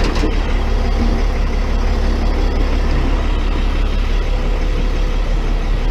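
Tow truck engine idling with a steady low rumble.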